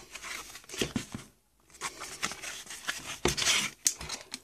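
Foil wrapper of a Pokémon card booster pack rustling and crinkling as it is handled, in irregular scrapes and clicks with a short pause about a second and a half in.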